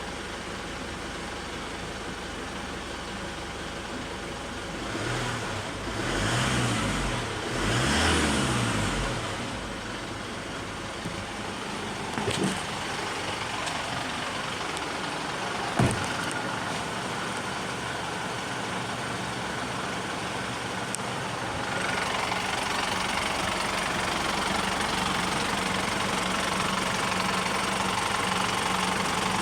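Mazda BT-50 engine idling steadily, blipped up and back down about three times a few seconds in. There are two sharp clicks around the middle, and it runs a little louder over the last several seconds.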